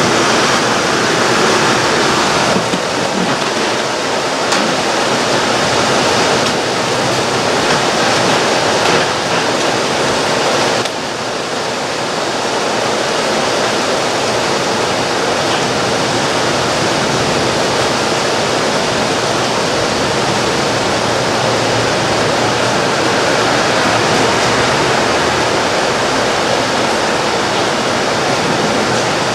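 Steady, loud rushing hiss of heavy thunderstorm rain, with a few abrupt jumps in level in the first ten seconds or so.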